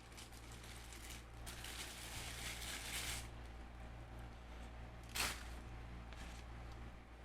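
Soft rustling and crinkling from hands handling food, for a second or two, then one brief sharp crackle about five seconds in, over a faint steady hum.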